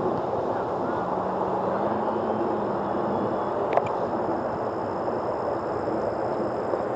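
Electric RC airplane's motor and propeller running steadily in flight, with a faint high whine over a rushing hiss of air. A single short click a little past the middle.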